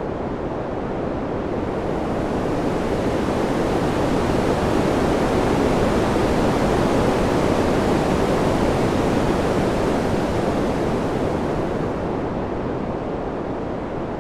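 Ambient wind noise: an even rushing hiss with no gusts or tones, slowly swelling over the first few seconds and easing off again near the end.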